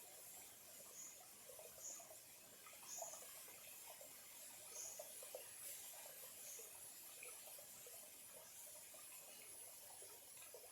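Faint trickling and gurgling of a small, clear stream, with short high chirps every second or two during the first part.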